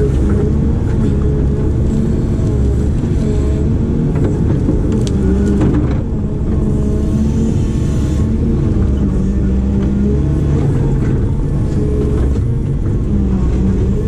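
Diesel engine of a heavy earthmoving machine running steadily under load while it works, its pitch wavering slightly, with a few short knocks or creaks about five to six seconds in.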